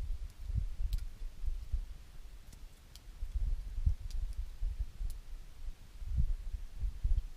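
Wood fire crackling, with a handful of scattered sharp pops, over a louder irregular low rumble that swells and fades.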